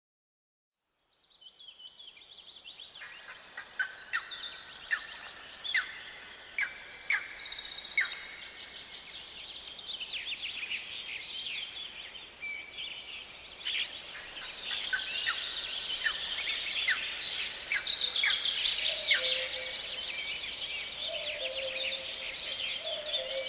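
Chorus of many songbirds chirping and trilling, with many calls overlapping. It fades in about a second in and grows fuller and louder.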